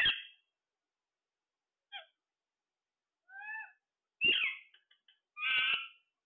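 Parrot giving about five short calls with pauses between them, some loud and harsh and some softer, with a bending pitch.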